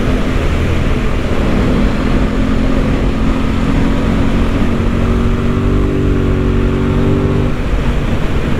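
Aprilia RS 660 parallel-twin engine running under way with a steady note and wind rushing. The note drops sharply near the end.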